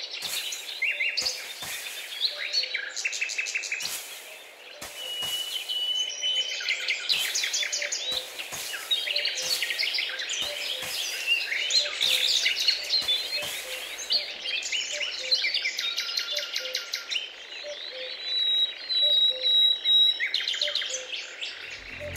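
Songbirds chirping and singing: many quick chirps and trills, with a few short held whistles, one about five seconds in and another near the end. Scattered light clicks and scrapes of a small tool working sand sound underneath.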